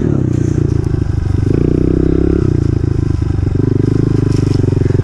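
Honda CRF125F dirt bike's single-cylinder four-stroke engine running under throttle while riding, its note stepping up and down with the throttle and dropping sharply about two and a half seconds in.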